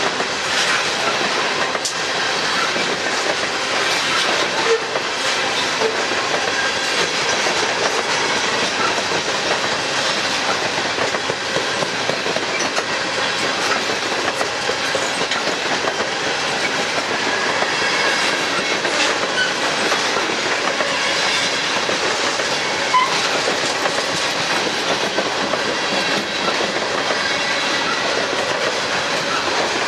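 Train cars rolling steadily past on the track: a continuous clatter of wheels on rail with scattered clicks and faint high-pitched tones.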